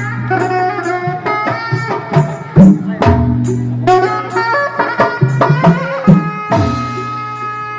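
Traditional folk music accompanying a Debus show: a wind instrument plays a melody of long held notes over hand-drum beats.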